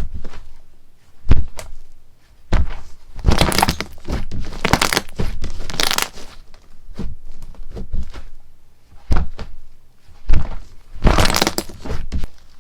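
Slime being poked and squeezed by hand, giving a string of sharp pops and clicks, with longer crackling stretches about three to six seconds in and again near the end.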